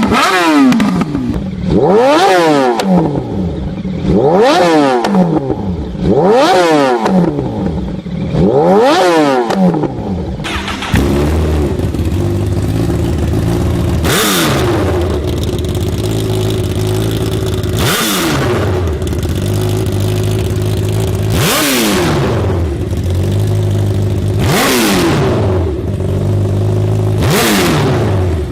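Motorcycle engine and exhaust being revved again and again. At first it blips up and falls back about every two seconds. About eleven seconds in it changes to a steady idle, broken by a quick rev every three to four seconds.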